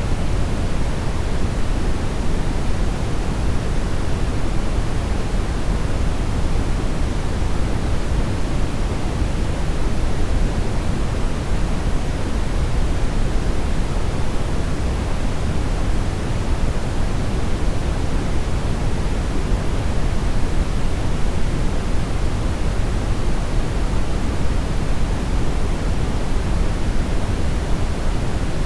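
Steady synthetic brown noise: an even, unchanging hiss, deepest and strongest in the low end and rolling off toward the top.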